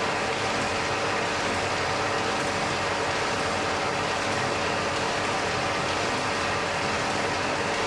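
Blacksmith's forge fire burning with a steady rushing noise and faint fine crackle.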